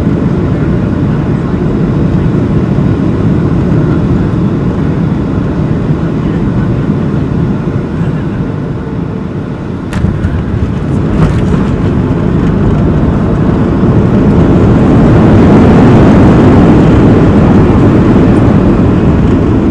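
Boeing 737-700 cabin noise during landing: a loud steady rumble of engines and airflow. About halfway through there is a sharp knock, and another a second later; the roar then builds to its loudest for a few seconds, as on touchdown followed by reverse thrust and braking.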